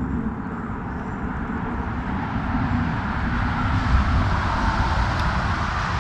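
Steady rushing river water as a kayak floats over a ledge, with low wind rumble on the microphone; the rush grows a little louder about halfway through.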